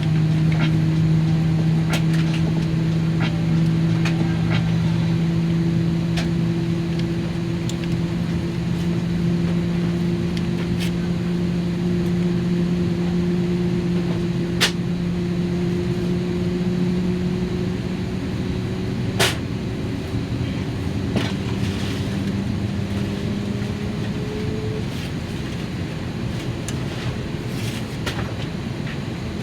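Airbus A321 airliner cabin noise with a steady hum that slowly rises in pitch and fades near the end, plus a few sharp clicks.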